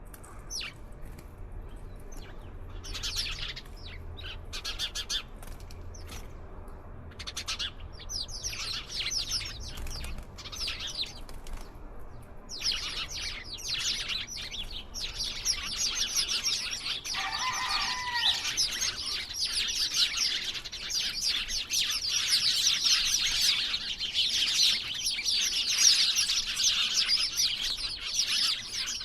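A flock of small birds chirping and chattering, in scattered bursts at first, then a dense, continuous chorus from about halfway through. One lower call stands out briefly in the middle.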